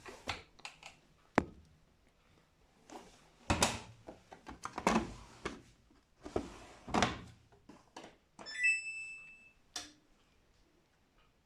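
Samsung EcoBubble washing machine being handled and set: a run of clicks and thuds from its door and controls, then a short series of electronic beeps from the control panel a little past eight seconds in.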